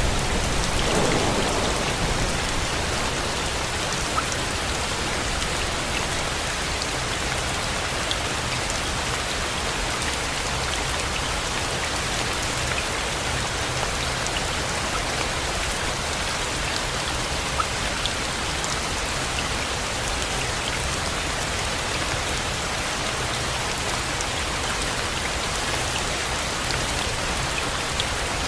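Steady rain falling on surfaces, an even hiss with scattered drop ticks. A low rumble fades out in the first couple of seconds.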